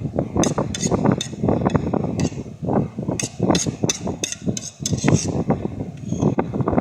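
A quick, irregular run of sharp taps or knocks, over a steady low rumble.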